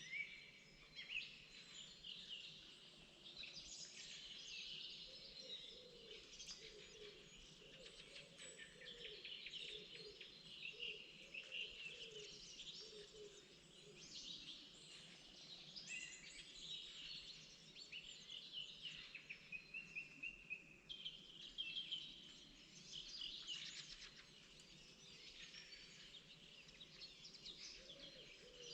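A chorus of spring songbirds, many chirping and trilling at once, faint and continuous, with a lower run of short repeated calls underneath.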